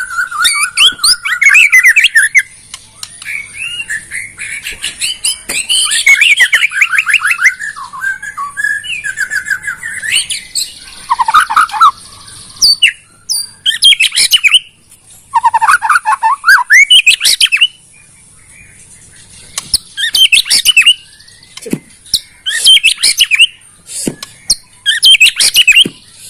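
White-rumped shama (murai batu) singing loud, varied whistled phrases with fast trills and chattering notes, in bursts broken by short pauses, over a steady high-pitched buzz.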